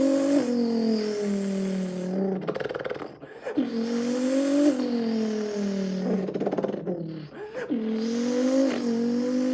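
A man imitating an Acura NSX NC1's engine with his mouth: a buzzing hum that climbs in pitch and drops back sharply about four times, like an engine revving up through its gear shifts, with two rougher, raspy stretches about three and seven seconds in.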